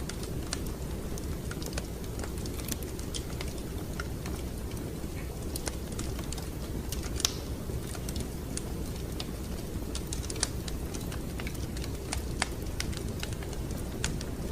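Fireplace fire crackling: irregular sharp snaps and pops over a steady low rumble, with one louder pop about halfway through.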